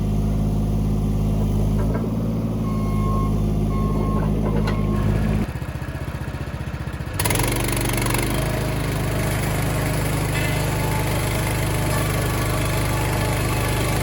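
An engine running steadily. About five and a half seconds in it drops lower for under two seconds, then it comes back with a harsher, noisier sound over the top that continues.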